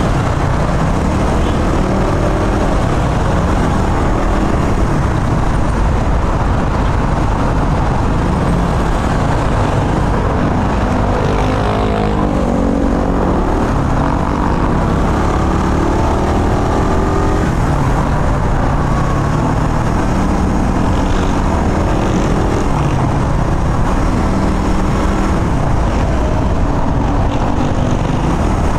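Motorcycle engine running while riding at around 40 km/h, its pitch rising and falling with the throttle, with a clear climb about halfway through. Wind rushes over the microphone throughout.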